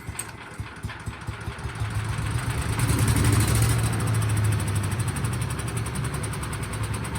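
Cub Cadet CS 2210 chipper shredder's small gas engine turning over and running on a start attempt, growing louder about two seconds in and then holding steady. Its fuel system is full of water at this point.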